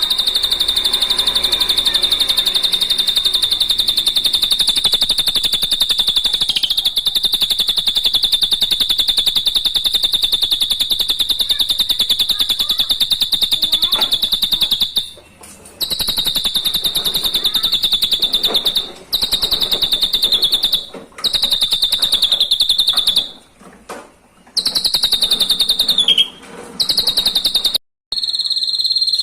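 Drongo (srigunting) song: a long, very fast, buzzy high trill on one steady pitch. It runs unbroken for about fifteen seconds, then is cut by several short pauses.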